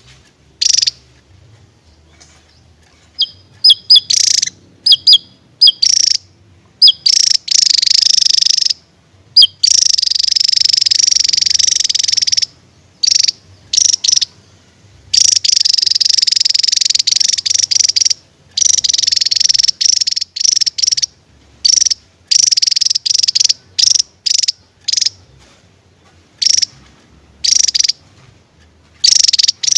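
Javan tesia singing in high, rapid trilling bursts, some brief and several running unbroken for a few seconds.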